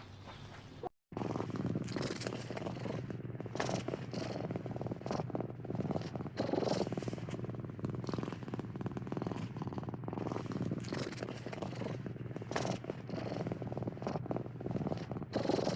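Domestic cat purring, a steady fluttering rumble that begins after a moment of silence about a second in.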